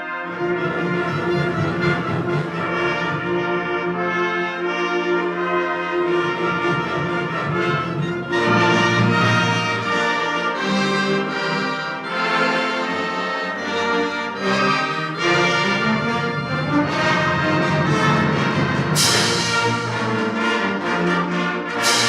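Community concert band playing a Christmas piece, brass to the fore with trombones, trumpets and horns over the woodwinds. Two bright crashes ring out near the end.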